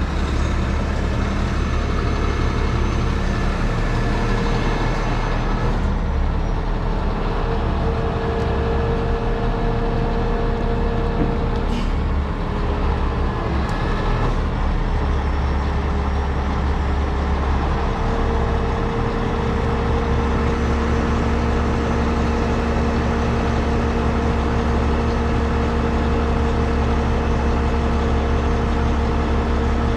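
Heavy diesel engine of a rotator wrecker truck running steadily, with a deep hum and a steady higher drone over it.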